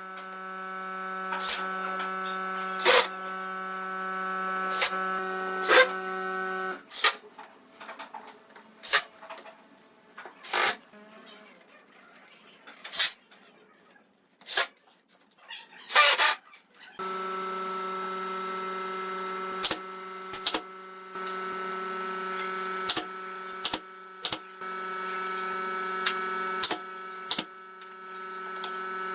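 Electric power tool motor running steadily with an even hum, cutting off about seven seconds in and starting again near the middle, with sharp knocks on the wood throughout.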